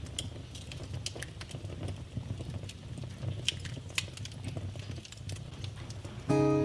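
Wood fire in a fireplace crackling, with irregular sharp pops over a low steady rumble. Near the end a sustained musical chord comes in suddenly and is louder than the fire.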